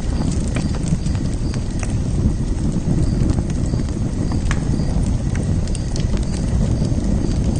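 Fire burning with a steady low rumble, broken by scattered sharp crackles and pops at irregular intervals.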